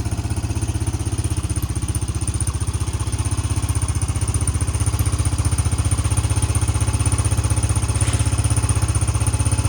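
ATV engine idling with a steady, even firing pulse, a little louder toward the end. It has just been started cold and is running on choke, and the owners suspect it needs a carburettor cleaning.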